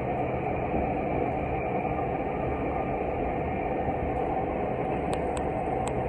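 Cabin running noise of a Tokyu 5050 series electric commuter train under way: a steady rumble of wheels on rail and running gear. A few short, light clicks come near the end.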